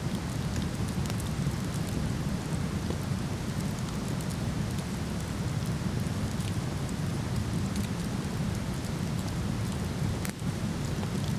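Steady rushing roar of a waterfall, heaviest in the low end, with sparse small crackles from a wood fire and one sharper pop about ten seconds in.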